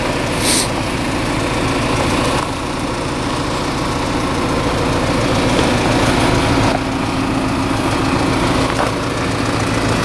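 A 1994 Chevrolet Impala SS's 5.7-litre LT1 V8 idling steadily while warming up after a cold start. A brief hiss comes about half a second in.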